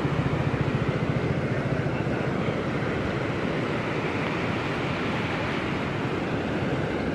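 Heavy rain falling as a steady, dense hiss over a low rumble.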